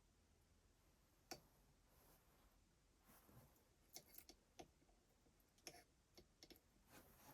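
Near silence broken by faint, irregular clicks and taps, one about a second in and a cluster in the second half.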